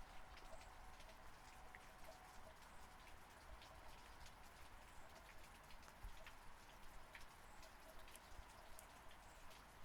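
Faint, steady rain: an even hiss with many individual raindrops ticking at irregular moments.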